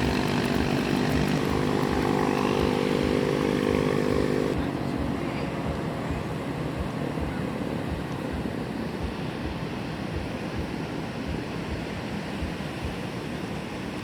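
A motor engine drones steadily and cuts off abruptly about four and a half seconds in. After that, wind buffets the microphone over a steady rush of surf.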